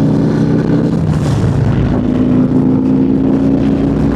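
Harley-Davidson motorcycle's V-twin engine running as the bike pulls away and rides on, with a steady engine note and loud rushing noise.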